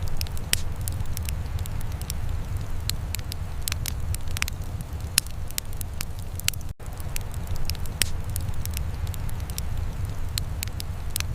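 Wood fire crackling: irregular sharp pops and snaps over a steady low rumble, with a momentary break in the sound a little past halfway.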